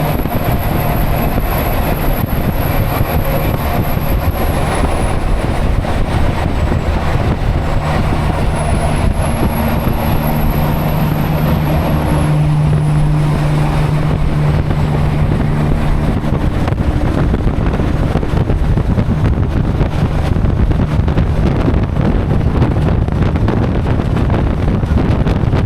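Semi-truck engine running steadily with road noise while driving, a continuous low drone. A thin high whine glides down and back up in the first ten seconds.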